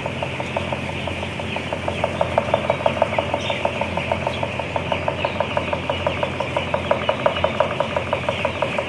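A large flock of broiler chicks peeping together, over a rapid regular mechanical ticking of about seven or eight strokes a second and a low steady hum.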